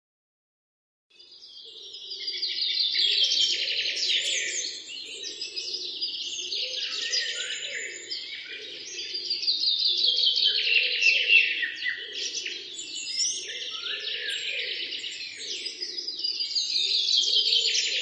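Birds chirping and twittering in a dense, continuous chorus of high, quick calls, with a lower repeating call underneath. It starts suddenly about a second in.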